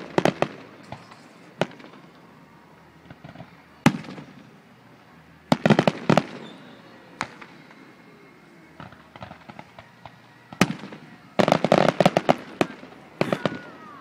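Aerial firework shells bursting, with single sharp bangs every few seconds. Quick clusters of pops come near the start and around six seconds in, and a dense run of rapid crackling comes near the end.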